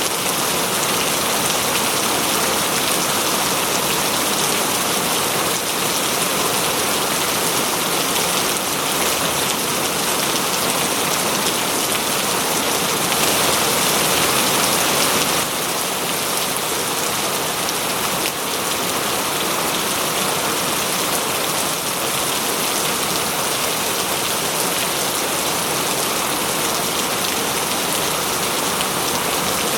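Steady rain falling, a dense even patter with no breaks; the level steps down slightly about halfway through.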